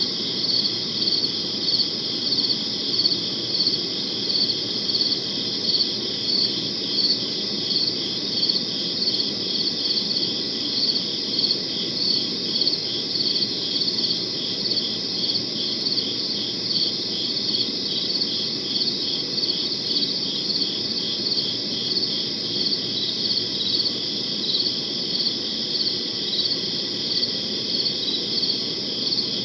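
Crickets chirping: high-pitched chirps repeating in a steady, even rhythm, layered over a soft, constant low background noise.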